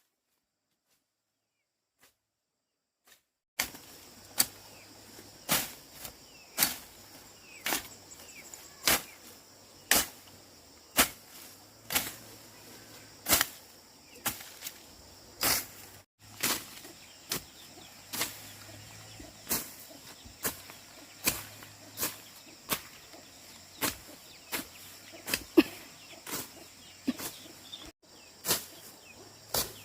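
Repeated sharp knocks or strikes, about one a second, starting a few seconds in, over a steady faint hiss.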